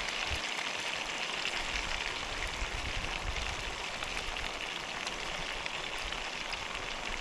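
Steady watery hiss with a fine, even patter running through it.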